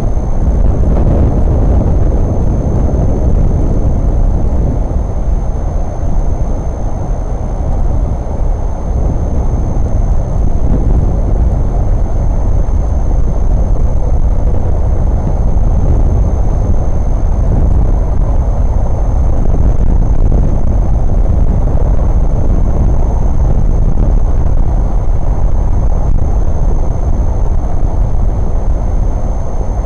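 Loud, steady low rumbling noise with no distinct events, and a faint, thin, high-pitched whine throughout.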